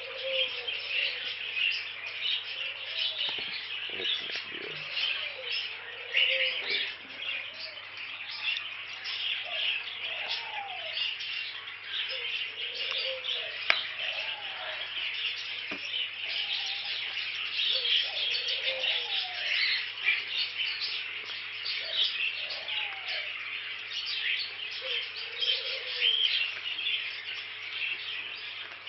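Many budgerigars chirping and chattering continuously as a flock, with lower rising-and-falling calls every couple of seconds and a single sharp click about fourteen seconds in.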